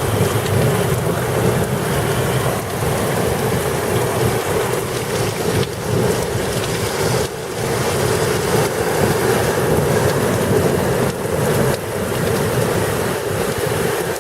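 Heavy rain pouring steadily in a thunderstorm, with a low rumble of thunder underneath.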